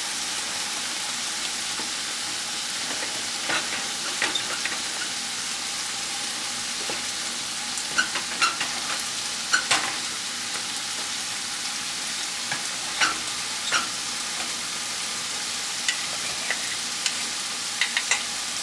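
Pork frying in a hot pan, a steady loud sizzle, with scattered sharp clicks and taps of stirring against the pan.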